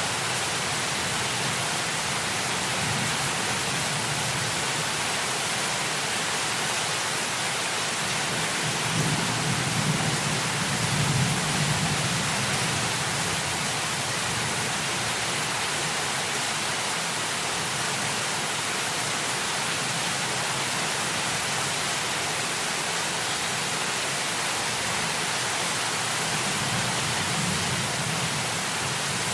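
Heavy rain falling as a steady, even hiss, with a low rumble of thunder swelling and fading away about nine to twelve seconds in, and rising again near the end.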